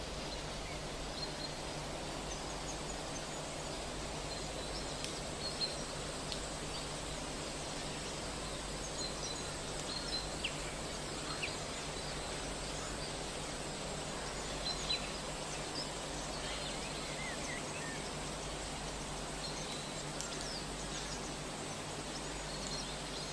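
Small birds giving short, high chirps now and then over a steady hiss and low hum.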